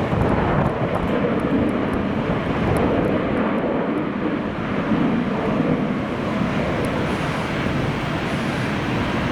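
Jet airliner engines, a steady rushing roar, mixed with wind buffeting the microphone.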